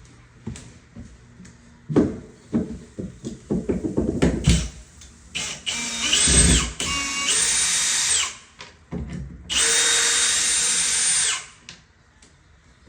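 Power drill running in two bursts of about two seconds each, with a steady motor whine, after a run of knocks and handling clatter.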